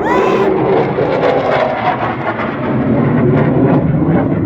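Loud, steady roar of a jet aircraft flying over, with a short rising whistle-like tone at the very start.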